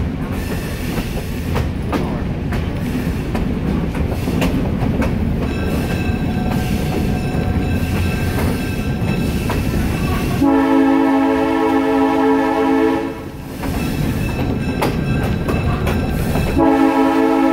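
Passenger train running, heard from a coach, with a steady rumble and wheel clicks on the rail joints. About ten seconds in, the locomotive sounds one long multi-tone blast of about two and a half seconds, and a second long blast begins near the end.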